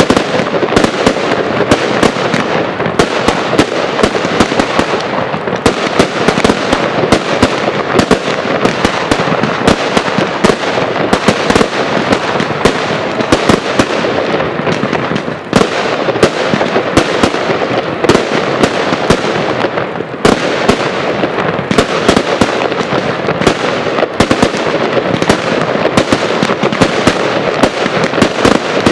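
Professional fireworks display firing a dense barrage: shots and bursts many times a second, one on top of another, with brief lulls about halfway through.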